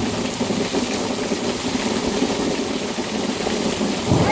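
Heavy rain falling in a steady, even hiss. A low rumble starts near the end.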